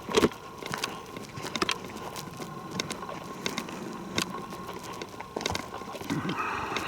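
Footsteps on a forest trail, with irregular crackles and crunches of leaves and twigs underfoot, and one louder knock just after the start.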